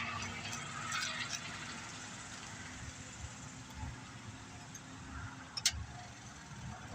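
A vehicle's engine fades away in the background. Faint handling of small chainsaw parts follows, with one sharp click about five and a half seconds in.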